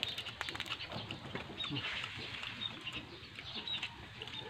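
Eating sounds: crunching and chewing, with a quick run of clicks in the first second. Birds chirp faintly in the background.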